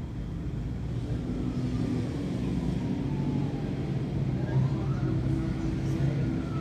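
Truck engine running with a steady low hum. A faint higher tone glides down and then back up partway through.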